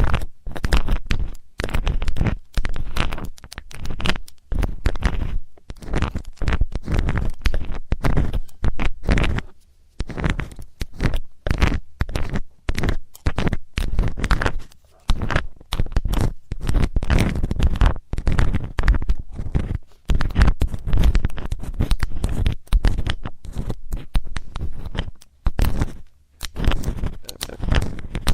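Metal ear-cleaning tool scraping and rubbing in the ear of a binaural microphone, close and loud, in quick irregular strokes with a deep rumble. The scraping pauses briefly a few times.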